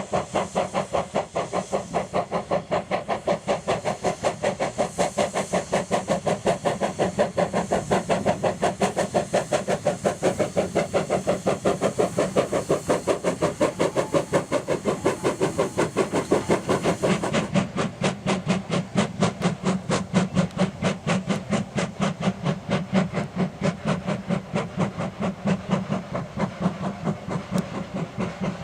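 Steam locomotive working hard: a quick, even run of exhaust beats, several a second, over a steady hiss of steam.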